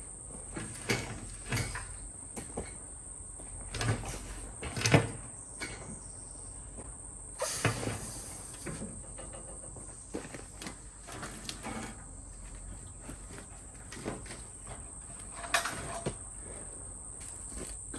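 Irregular knocks and thumps of hands-on work, the heaviest about four and five seconds in, with a longer scraping burst about seven and a half seconds in. A steady high chirring of insects runs underneath.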